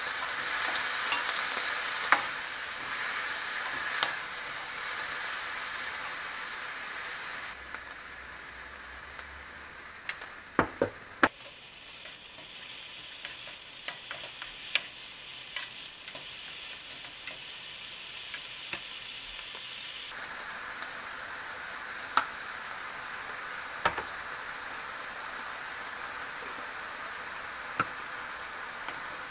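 Baby king oyster mushrooms and vegetables sizzling in a nonstick wok while being stirred with a wooden spatula, which knocks against the pan now and then, several times in quick succession about a third of the way in. The sizzle quietens for a stretch in the middle, then picks up again.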